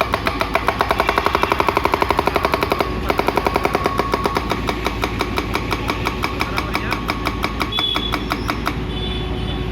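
ACE 30S hydraulic rock breaker hammering in rapid blows, about ten to twelve a second, with a brief break about three seconds in and weaker strokes near the end, over a steady low drone.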